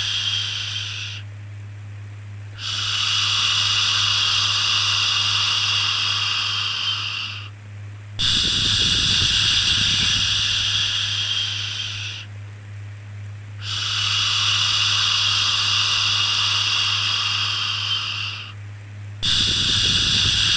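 Repeated long 'shhh' shushing sounds, each held for about four to five seconds with a short pause between them, over a steady low hum.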